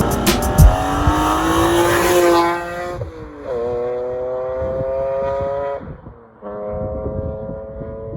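Car engine pulling hard under acceleration: the revs climb, drop at a gear change about three seconds in, climb again through the next gear, and after a second shift near six seconds carry on more steadily.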